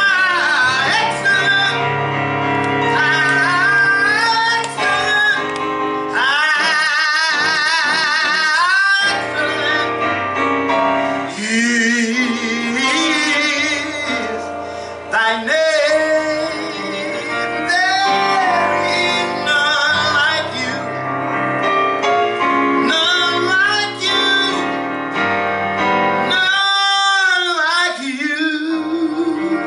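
Gospel church music: a solo voice singing long, wavering, heavily ornamented notes over sustained instrumental backing.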